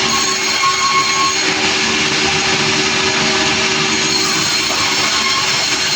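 Sawmill machinery running loudly and steadily, the saw working through timber over a steady low engine hum, with a faint brief squeal about half a second in.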